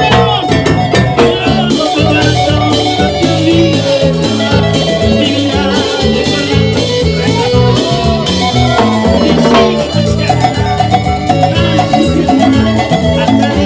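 A Latin dance band playing live, up-tempo music with drum kit and hand percussion keeping a fast steady beat over bass and guitar.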